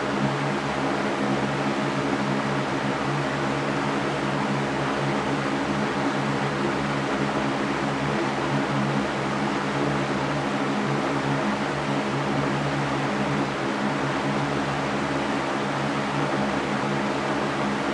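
Electric fan running steadily: an even airy rush with a low motor hum beneath it.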